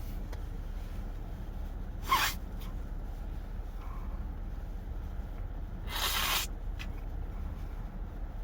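Two short noisy swishes about four seconds apart, with a few faint clicks, over a steady low hum: sounds of a McDonald's meal being eaten and handled.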